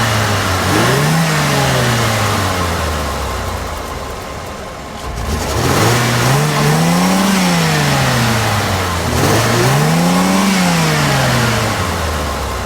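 2012 Mini Cooper S Countryman's turbocharged four-cylinder engine idling, then revved and let fall back three times. The engine has a misfire, which the owner suspects comes from bad piston rings and blow-by.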